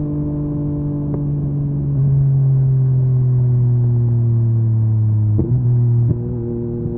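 Yamaha MT-09's three-cylinder engine through an Akrapovic carbon exhaust, running at fairly steady revs that drift slowly lower. It gets louder about two seconds in, with two short breaks in the sound near the end.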